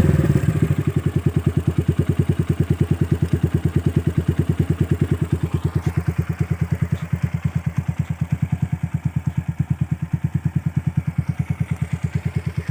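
Viar Cross X 150 motorcycle's engine, breathing through its stock exhaust, dropping back from a rev in the first moment and then idling steadily with an even, regular putter from the exhaust.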